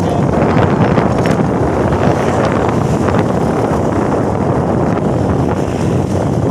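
Hino truck on the move: steady engine and road noise, with wind buffeting the microphone.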